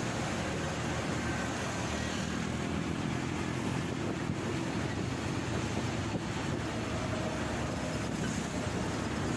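Riding a motorcycle: steady wind rush over the microphone mixed with the engine and road noise.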